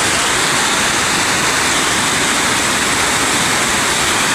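Steady, loud rush of a flooded river's fast-flowing water.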